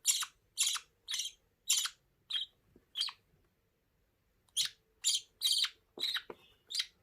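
Budgie chick squawking during hand-feeding: a string of short, harsh, high calls about two a second, with a pause of about a second and a half in the middle.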